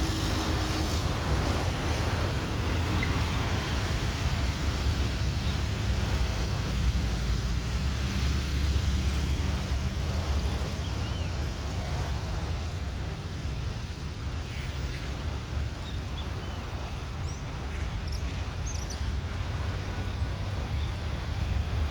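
Wind buffeting the microphone over a steady low rumble, which swells again near the end as the Airbus A320neo jet airliner draws closer on approach.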